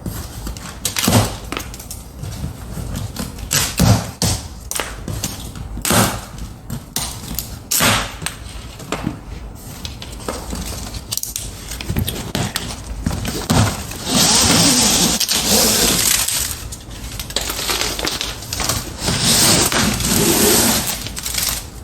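A boxed window air conditioner is being unpacked: scattered knocks and clicks of handling cardboard and packing, with two longer stretches of rustling, tearing packing noise, one about two-thirds of the way through and one near the end.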